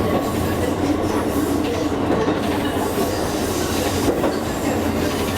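Steady rumble of a Kakogawa Line train running along the track, with a low hum, heard from inside the car.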